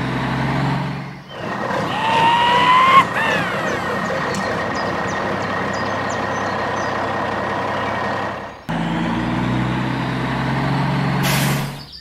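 Heavy vehicle engine running with a steady low hum. About two seconds in, a rising whine; then a rougher steady running sound; the low hum returns near the end, followed by a short hiss.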